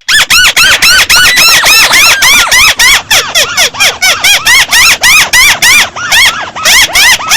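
Volume-boosted recording of the 'chim mắt xéo' bird's call: a rapid string of shrill notes, about four to five a second, each sweeping up and then down in pitch, with a short break a little after six seconds.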